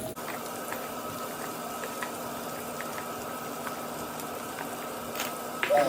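Brussels sprouts sizzling as they fry in butter in a cast-iron pan: a steady sizzle with small scattered pops and crackles.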